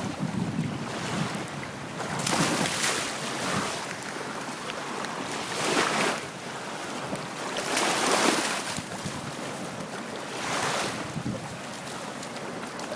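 Waves washing onto the shore, swelling and fading in surges every two to three seconds, with wind on the microphone.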